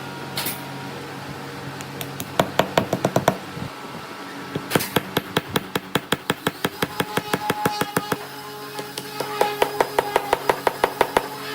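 Rapid runs of sharp knocks, about eight a second, in three bursts over a steady low hum.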